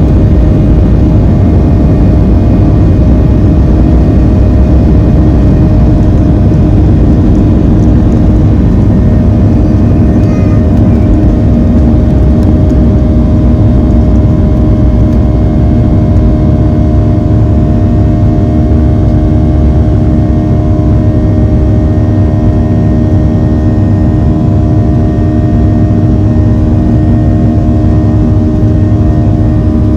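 Boeing 737-700's CFM56-7B jet engines at high thrust, heard from inside the cabin: a loud, steady rumble with a buzz of several steady tones over it, the fan 'engine buzz' of takeoff power.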